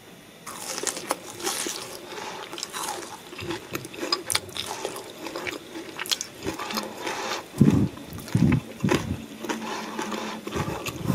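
Close-up crunching and chewing of crispy breadcrumb-battered fried toon shoots: a dense, irregular crackle of many sharp crunches, with a few heavier low thumps of chewing in the second half.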